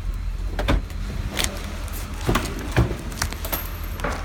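Repeated clicks and knocks of a pickup's door handle and latch being worked on a jammed door, over the steady low hum of the idling 6.0-litre LQ4 V8.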